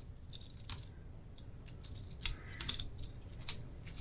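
Boker Plus balisong butterfly knife being flipped by hand: a run of sharp metallic clicks and clacks at irregular intervals as the handles swing open and shut, coming thicker past the middle.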